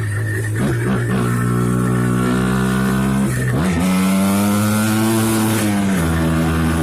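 1994 Yamaha Blaster's two-stroke single-cylinder engine running through an FMF Fatty expansion chamber and Powercore 2 silencer, revs held steady and changing with the throttle: stepping up about a second in, dipping briefly midway, climbing higher, then dropping back near the end.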